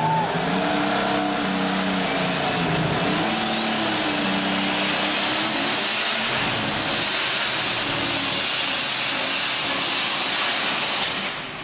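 Turbocharged alcohol-burning super stock pulling tractor engine running hard under load, a turbo whine rising steadily for a few seconds and then holding at a high pitch. Near the end the sound cuts off abruptly: the engine has quit partway down the track.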